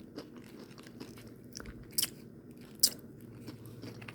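Crunching of tortilla-chip nachos being bitten and chewed: a run of small crisp crunches, with two louder bites about two seconds in and just before the three-second mark.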